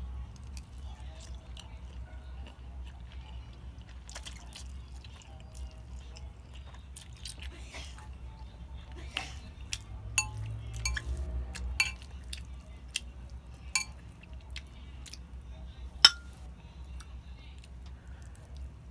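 Close-up eating sounds: mouth-noise chewing with scattered sharp clicks and clinks of utensils against the dish, the loudest a single click late on, over a steady low hum.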